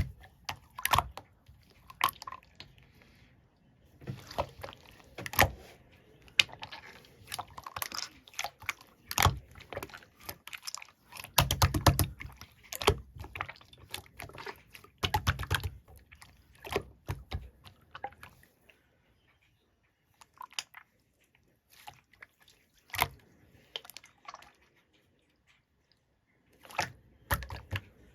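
Irregular close-up clicks, taps and crunchy handling noises, dense for most of the stretch and then sparse, with quiet gaps and a few isolated knocks.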